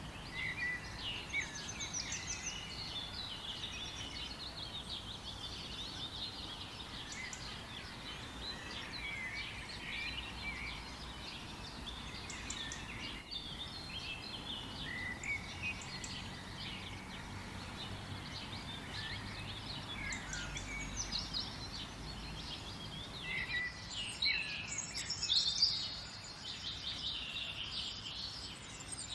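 A chorus of many small birds chirping and trilling together over a low, steady background hiss, growing busiest and loudest a few seconds before the end.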